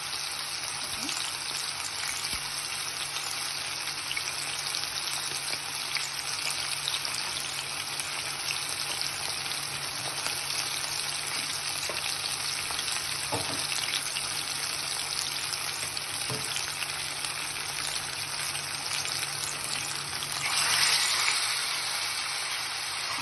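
Marinated chicken leg shallow-frying in hot oil in a nonstick pan: a steady sizzle with small crackles. About 21 s in, the sizzle swells louder for a second or two as a second leg piece goes into the oil.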